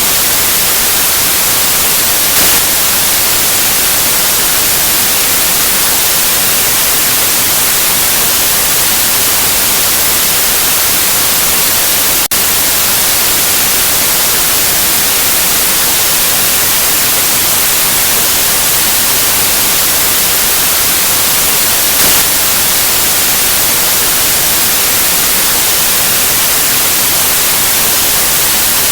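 Steady white noise: a loud, even hiss with no pitch or rhythm, broken only by a tiny click about halfway through.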